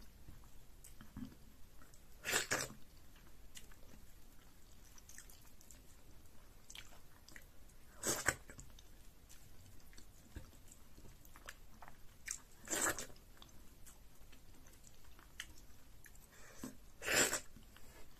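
A person chewing a mouthful of pounded yam fufu with banga soup, with four louder, short mouth sounds spaced about four to five seconds apart.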